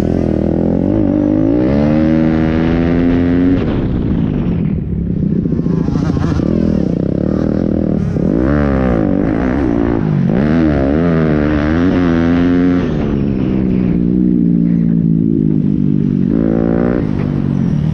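Pit bike engine revving hard, its pitch repeatedly climbing and dropping as the bike accelerates and backs off around the track.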